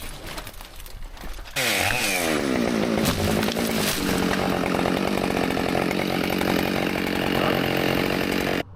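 Chainsaw cutting in suddenly at high revs, then winding down to idle over about two seconds. It idles steadily until it cuts off abruptly near the end.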